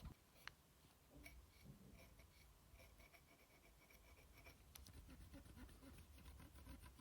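Faint, quick scratching strokes of a brush scrubbing the PS4 Slim's motherboard, about four strokes a second, with a sharp click about half a second in.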